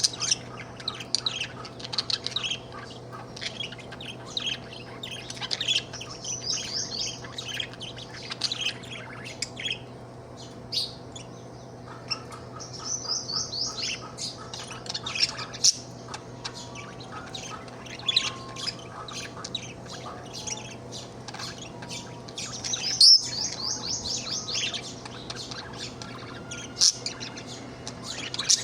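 Budgerigar chattering and warbling: a stream of rapid high chirps and trilled phrases, with a few louder sharp calls.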